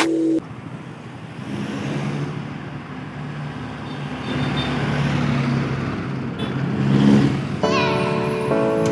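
A motor vehicle's engine running with road and wind noise, its pitch rising briefly about seven seconds in. Background music cuts out at the start and comes back near the end.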